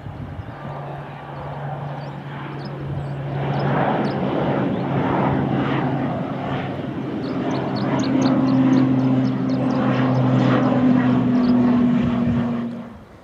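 Airliner's engines heard close by, a steady low hum with a noisy rush that grows louder over several seconds, then cuts off suddenly near the end.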